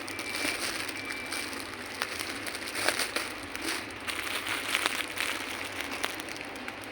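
Packaging and kitchen mats being handled, a soft continuous rustling with scattered sharp clicks and crackles.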